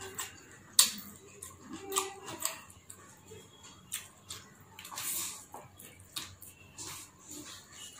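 Close-miked chewing and wet lip smacks of a person eating rice with his fingers, as irregular sharp clicks and smacks, the loudest about a second in.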